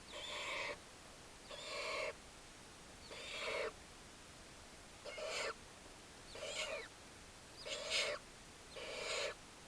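Baby barn owls giving harsh rasping begging calls, seven in a row, each about half a second long and spaced about a second and a half apart. These are the owlets' begging calls.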